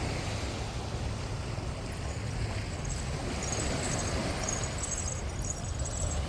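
Wind rumbling on the microphone over the steady wash of sea waves on a beach.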